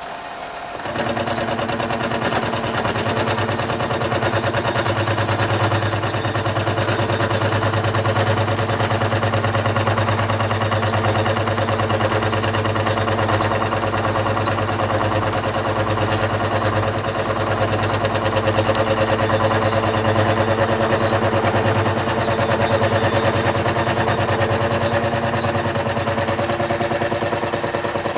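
Milling machine starting up about a second in, then running steadily with a low hum.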